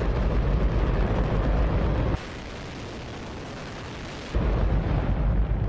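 Hydrogen-oxygen rocket engine test firing, a loud continuous rushing noise with heavy low end. About two seconds in it abruptly turns thinner and quieter for about two seconds, then comes back at full strength.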